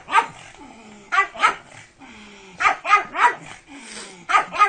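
Pug barking excitedly: sharp, high barks in quick groups of two or three, about eight in all.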